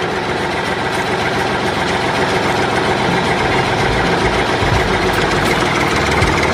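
A DIY mini tractor's engine running steadily at idle, with a fast, even chugging throughout.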